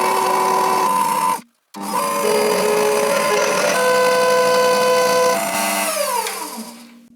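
Small power tool motor running with a steady whine while grooving a motor armature's commutator. It cuts out briefly about a second and a half in, then runs again. Near the end it is switched off and winds down, its pitch falling as it fades.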